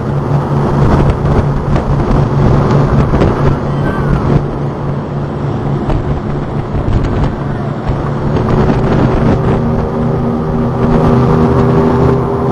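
Engine of a Guardian patrol launch running steadily under way, a low drone under a noisy rush. About three-quarters of the way through, higher steady tones join in.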